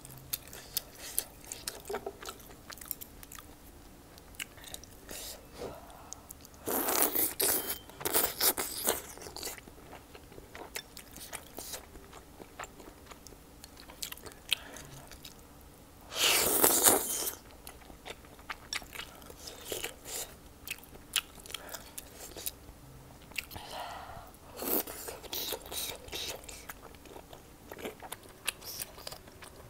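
A person chewing and biting food, with many small wet mouth clicks and crunches. There is a louder rush of noise about seven seconds in, another around sixteen seconds, and a softer one near twenty-five seconds.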